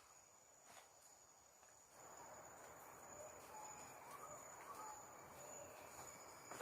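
Faint forest ambience: a steady, high-pitched insect drone, with the background hiss growing louder about two seconds in.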